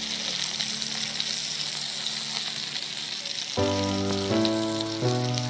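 Chicken sizzling as it fries in hot oil, a steady crackling hiss. About three and a half seconds in, background music of held notes changing pitch every half second or so comes in over it.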